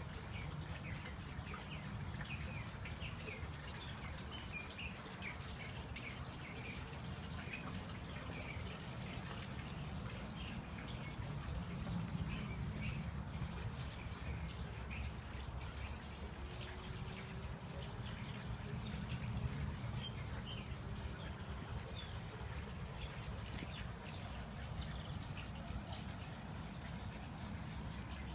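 Birds chirping: scattered short chirps and a high, short note repeating about once a second, over a steady low rumble.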